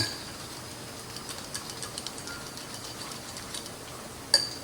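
A utensil stirring a creamy dressing mixture in a bowl, with faint light ticks, and two sharp ringing clinks against the bowl: one at the start and one near the end.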